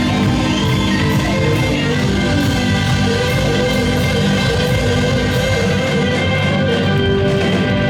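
Blues-rock band playing live: sustained guitar and keyboard-like tones over bass and drums, with a held, wavering note through the middle and cymbal strokes about twice a second.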